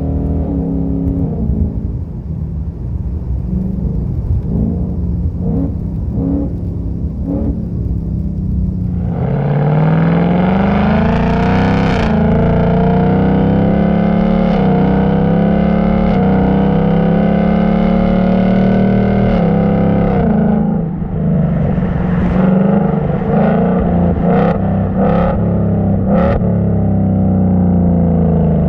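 A 2019 Mustang GT's 5.0 V8 running through an H-pipe resonator-delete exhaust, with its uneven burble at lower revs for the first several seconds. It then pulls hard at higher revs for about ten seconds, eases off with several sharp cracks, and rises again near the end.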